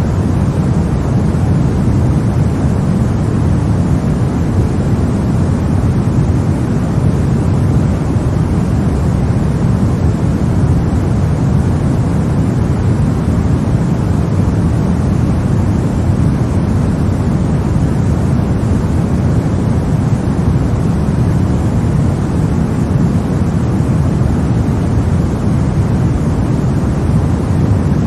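Steady, unchanging white-noise track for lulling a baby to sleep. It is a deep, even rush with a softer hiss above it, without a break or change.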